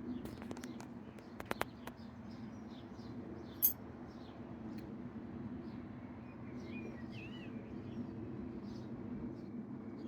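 Small birds chirping, with many short high chirps repeating throughout and a brief warbling phrase about two thirds of the way in. A few sharp clicks sound early on, and a loud sharp crack a little before the middle is the loudest moment, all over a steady low background hum.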